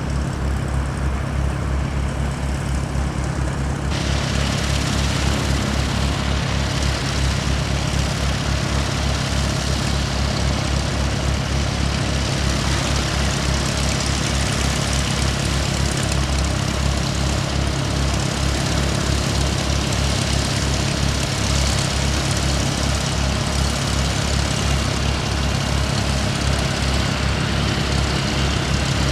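Aircraft engine noise: a loud, steady low rumble, joined about four seconds in by a hiss across the higher range.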